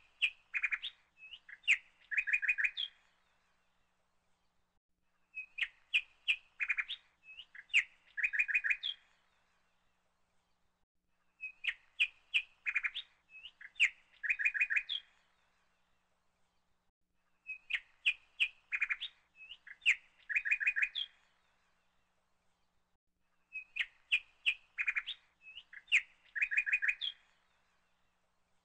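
Birdsong: a phrase of sharp chirps ending in a quick trill, repeated the same way about every six seconds, five times over, with silence in between.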